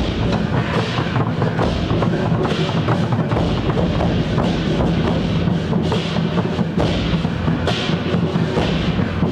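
Temple-procession percussion music: drums and struck percussion playing a fast, dense, unbroken rhythm, with bright crashes recurring about once a second.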